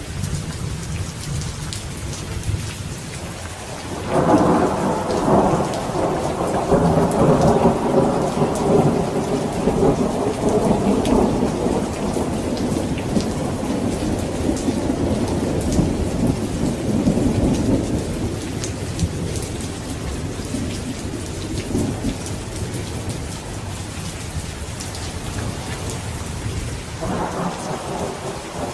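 Steady heavy rain on surfaces, with a long roll of thunder that swells about four seconds in, rumbles on for many seconds and fades, and another rumble starting near the end.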